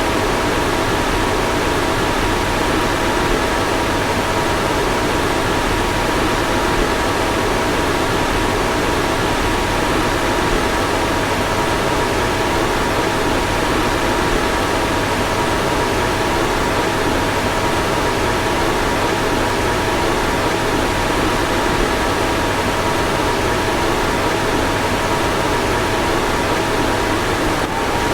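Car fan running steadily: an even rushing of air with two faint steady tones and a low hum beneath.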